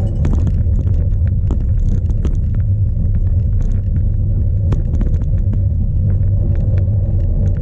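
Strong wind buffeting the microphone of a bike-mounted onboard camera, a loud steady low rumble, with scattered sharp clicks and rattles over it.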